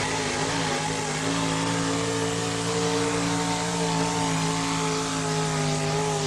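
572-cubic-inch engine of a modified four-wheel-drive pulling truck running at high revs under heavy load as it pulls the sled. It holds a steady pitch that sags slightly near the end.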